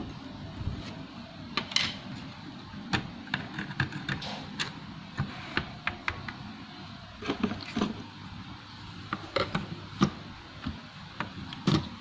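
Irregular light clicks and taps, some coming in quick little clusters, from hands working on a laptop, over a steady low background hiss.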